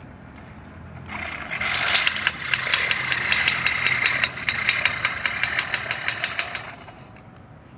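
Lawnmower running. From about a second in until near the end it turns much louder and harsher, with a rapid, even ticking of about six a second over a rasping noise, then drops back to a low hum.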